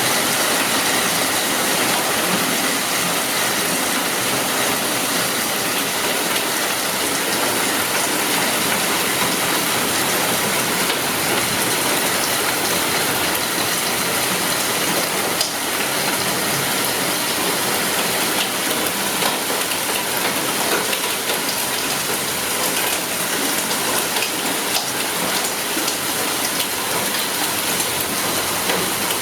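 Heavy rain and hail pelting down: a loud, steady hiss of falling water dense with small clicking impacts.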